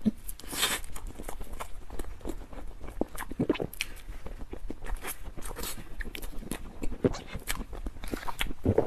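Close-miked eating of a soft bread bun with a stretchy creamy filling: bites and chewing, with irregular mouth clicks and smacks throughout.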